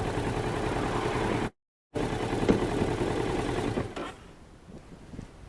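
Motorcycle engine running close up with a rapid, rattling beat. It cuts out completely for a split second about one and a half seconds in, then drops away to quieter wind noise about four seconds in.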